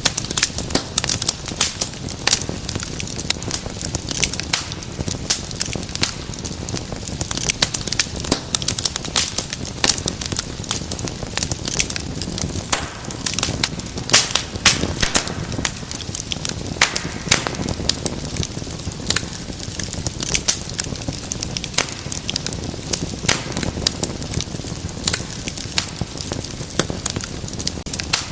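Wood fire in a fireplace crackling: dense, irregular sharp pops and snaps over a steady low rush of flames.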